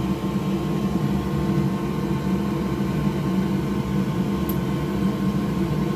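Steady whir of a fan running, with a low hum underneath and a faint steady high tone.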